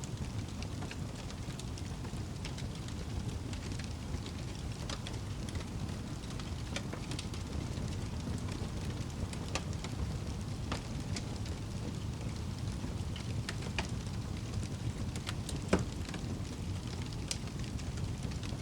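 Wood fire burning with a low steady rumble and frequent scattered crackles and pops, one sharper pop near the end.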